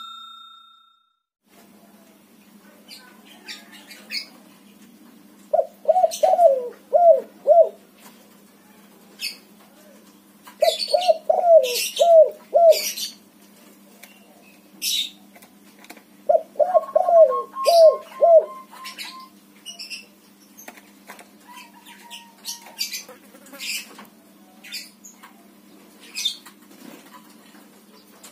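White-variety spotted dove (tekukur) cooing in three phrases of several quick coos, a few seconds apart. Sharp high chirps and clicks are scattered between them, over a steady low hum.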